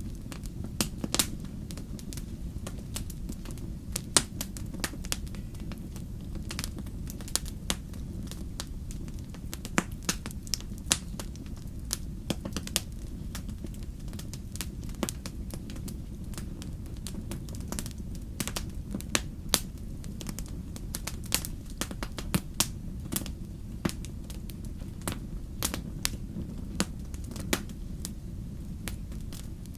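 Wood campfire crackling, with irregular sharp pops and snaps of burning wood over a steady low rumble of the flames.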